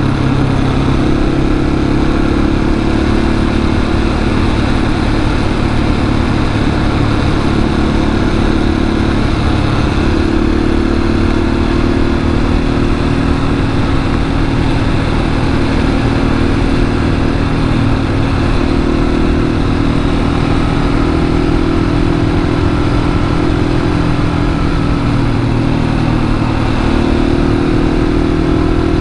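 Husqvarna 701 supermoto's single-cylinder engine running at fairly steady cruising revs while riding, with wind noise rushing over the microphone.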